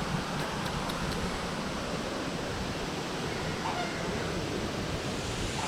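Steady rushing background noise, with faint voices about three and a half seconds in.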